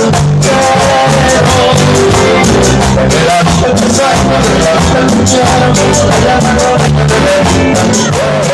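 Band music with a steady beat: drums and bass pulsing under melody instruments.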